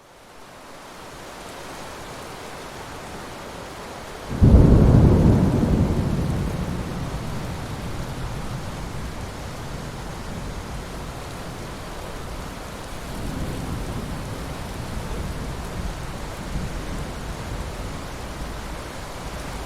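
Steady rain hissing, fading in at the start; about four and a half seconds in a sudden loud thunderclap breaks and rolls away slowly over several seconds, and a softer rumble of thunder follows later.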